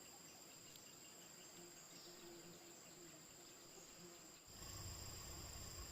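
Faint steady chirring of insects, two high thin tones held without break. About four and a half seconds in, a low rumble joins it.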